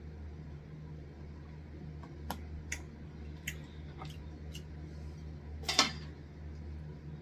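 Eating and handling takeout food: a few sharp clicks and taps from about two seconds in, then a louder short crunch just before six seconds, over a steady low hum.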